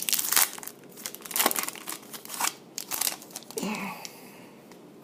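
Crinkling and rustling of football trading cards and their pack wrappers being handled, in several short bursts, easing off about four seconds in.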